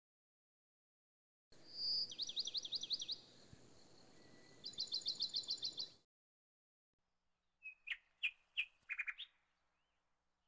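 A small songbird singing two quick trills of rapidly repeated, down-slurred high notes, each lasting a second or so, that start and stop abruptly. A few short chirps follow near the end.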